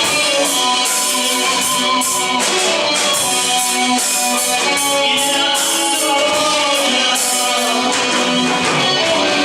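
A live vocal-instrumental band playing loud with guitars and a steady drum and cymbal beat.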